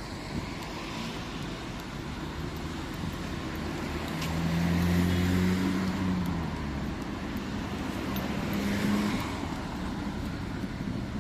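Street traffic: motor vehicles running past with a steady road noise. A vehicle's engine hum swells loudest about four seconds in and fades after about six seconds, and a smaller swell comes near the end.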